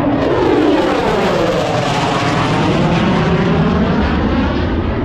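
Jet aircraft flying low past at an airshow, a loud rushing roar whose pitch sweeps down about two seconds in and back up as it goes by.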